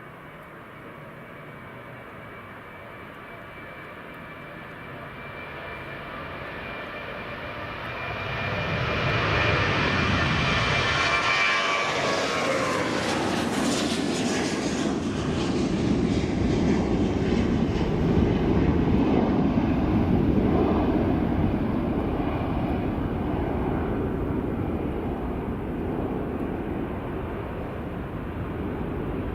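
Aircraft on short final passing close by: a high engine whine grows louder and drops sharply in pitch as it goes past about twelve seconds in, then a lower, steady engine rumble that slowly fades.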